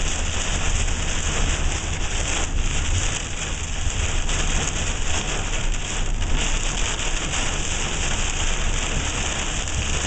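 Heavy thunderstorm rain pouring down steadily, with a low rumble underneath.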